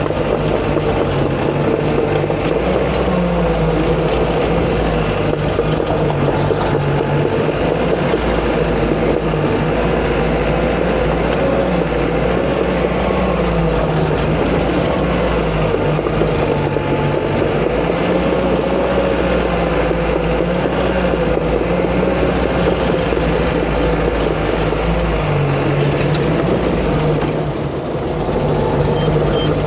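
Caterpillar D5 bulldozer's diesel engine running loud and steady while working, its engine speed rising and falling a few times as the load changes, with a brief dip in level near the end.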